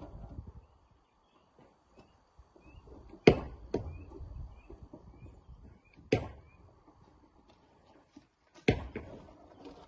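Rocks being broken or loaded: four sharp, hard knocks, the first about three seconds in and the loudest, each followed by a short rattling clatter. Faint short rising chirps sound between the knocks.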